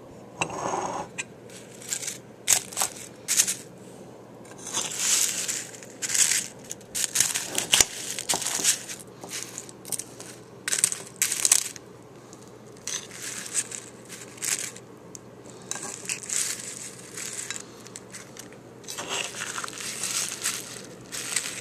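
Close-up chewing of a hard-shell taco bowl: irregular crisp crunches, about one or two a second, with short pauses between bites.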